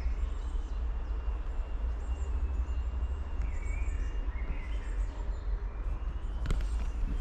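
A few short bird chirps over a steady low rumble, with several sharp knocks near the end.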